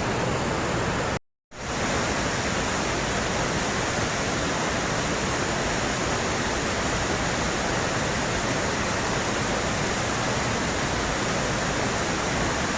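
Waterfall and whitewater rapids heard up close as a loud, steady, dense rush of water. A split-second dropout about a second in breaks it off, then it resumes unchanged.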